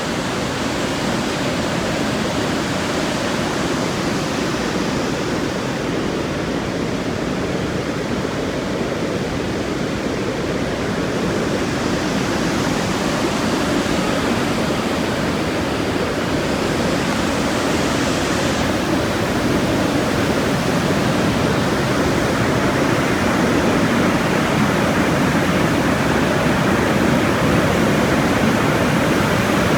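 Steady rush of a waterfall: even, loud water noise with no breaks, growing slightly louder near the end.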